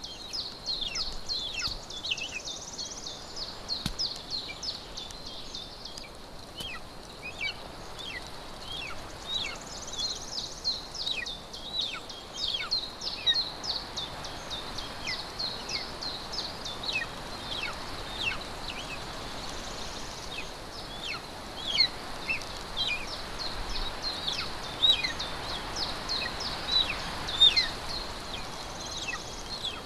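Birds calling: a rapid, unbroken stream of short, high chirps, each sliding down in pitch, over a steady outdoor hiss.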